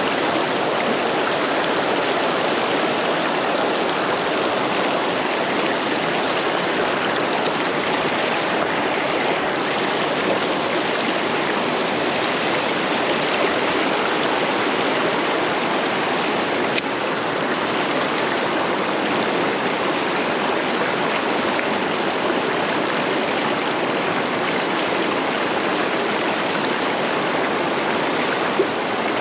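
Fast river water rushing steadily, an even wash of flowing-water noise, with a single faint click about halfway through.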